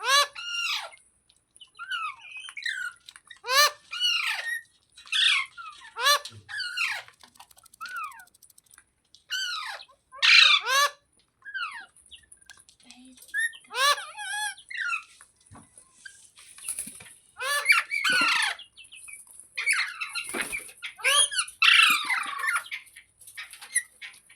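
Green parrot giving a long series of short, harsh squawking calls, one after another about every second, many of them sliding down in pitch.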